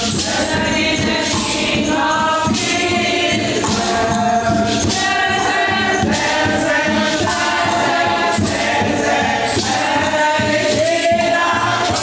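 Music: a choir singing with accompaniment, with sustained notes changing about once a second.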